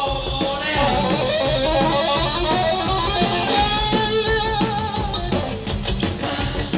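Live rock band recording with an electric guitar playing a wavering, bending lead line over bass and drums, without singing.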